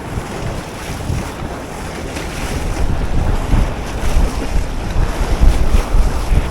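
Strong wind buffeting the microphone in uneven gusts that get heavier about halfway through, over a rush of choppy river water.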